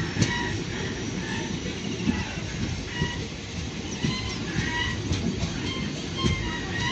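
Express passenger train running, heard from aboard a coach: a steady rumble of wheels on rail, with sharp clicks every second or two and short high-pitched squeaks.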